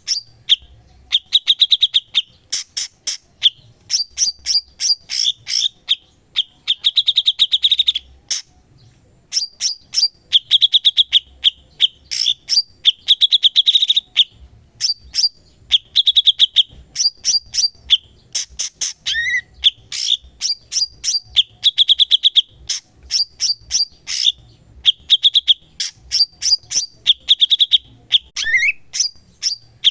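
Cucak cungkok singing continuously in full song. Its phrases alternate rapid clicking chatter with buzzy trills, broken by short pauses, with an occasional quick rising whistle.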